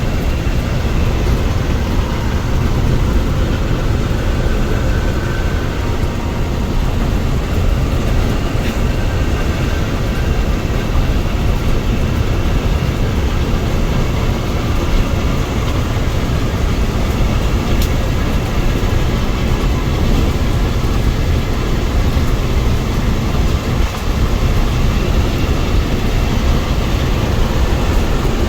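Scania bus under way: steady low engine and road rumble with no change in pace.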